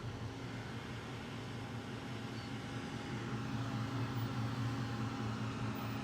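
Steady low mechanical hum, getting a little louder about halfway through.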